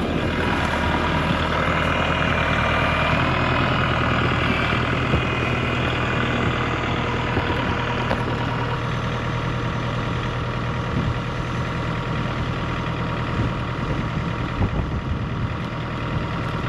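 A tow truck's engine running steadily at idle while its winch pulls, with a steady higher whine over the low engine hum.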